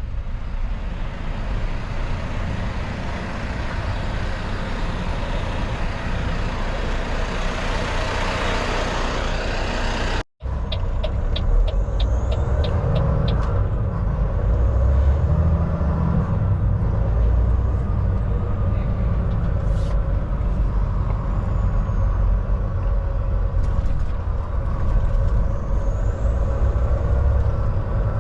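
Semi-truck diesel engine running with a steady low rumble, heard from inside the cab. The sound cuts out for a moment about a third of the way in, and a short run of rapid clicks follows just after.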